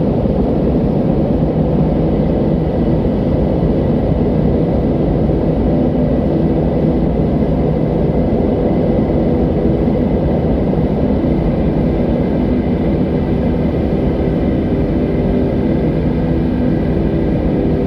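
Wind blowing steadily, a deep, even noise with little change.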